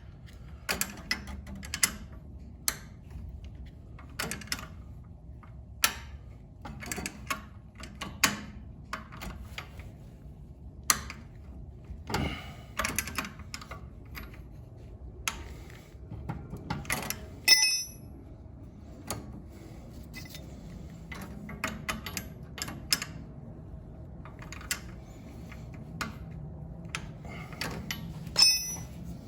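Irregular metal clicks and clinks of hand tools and boiler parts being handled, with a louder ringing metallic clink about two-thirds of the way through.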